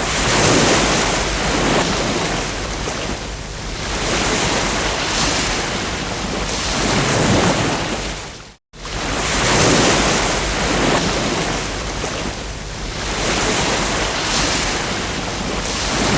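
Ocean surf: waves breaking and washing up the shore, swelling and ebbing every few seconds. The sound cuts out to silence for an instant about halfway through, then carries on.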